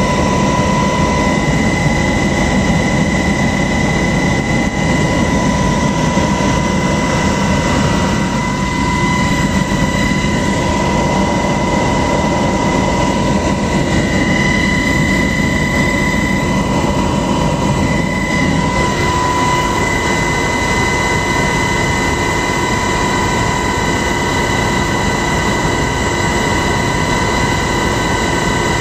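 Helicopter in flight: a loud, steady engine and rotor noise with a constant high whine over it.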